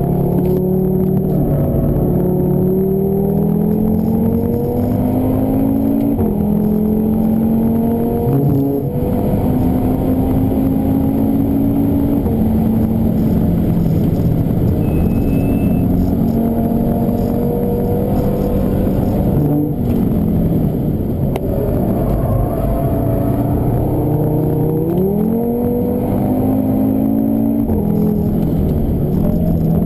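Audi TT RS's turbocharged 2.5-litre five-cylinder engine under hard driving, heard from inside the cabin. The engine note climbs with revs, drops at each gearshift, and falls and rises again as the car brakes and accelerates through corners.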